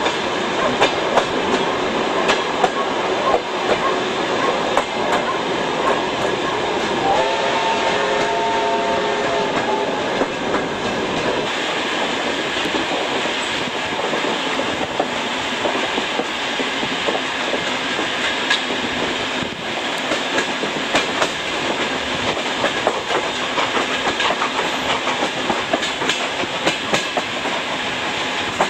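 Passenger train rolling along, heard from a carriage window: steady wheel and rail noise with repeated clicks over rail joints. About seven seconds in, the locomotive whistle sounds once for about three seconds.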